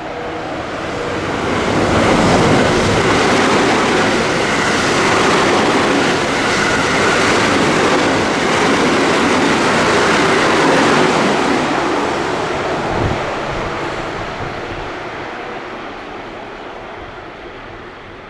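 A train passing through the station at speed without stopping: a rush of wheel and air noise that builds over about two seconds, stays loud for about nine seconds, then slowly fades as it moves away.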